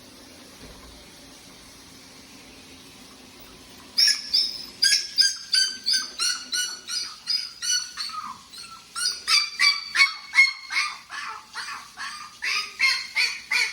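Morkie puppy yipping: a rapid series of short, high-pitched yips, about two to three a second, some falling in pitch, starting about four seconds in after a stretch of quiet room tone.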